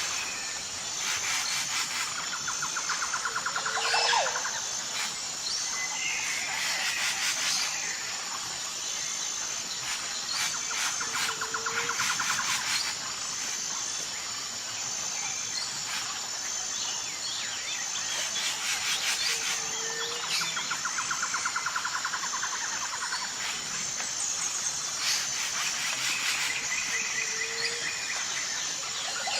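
Tropical forest ambience of birds calling over a steady, evenly pulsing insect drone. One bird phrase recurs about every eight seconds: a rapid trill, then a call sliding down in pitch.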